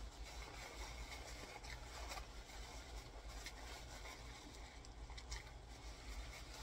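Quiet chewing of fried chicken with small, scattered mouth clicks, and light crackles as the chicken is handled, over a steady low hum.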